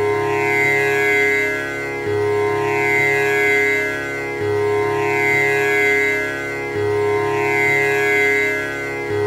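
Tanpura drone: its strings plucked in a repeating cycle that starts over about every two and a quarter seconds, sustaining a continuous buzzing shimmer of overtones.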